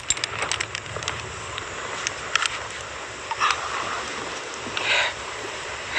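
Strong wind blowing over the microphone as a steady rushing noise, with scattered short clicks and a few louder gusts or rustles.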